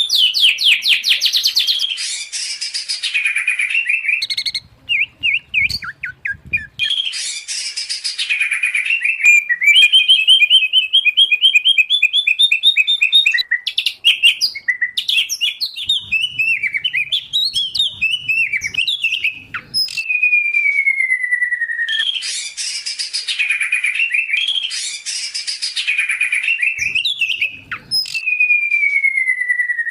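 Songbirds singing in a mixed recording of white-rumped shama, oriental magpie-robin and greater green leafbird: rapid trills of repeated notes, a fast run of rising notes, and twice a long falling whistle.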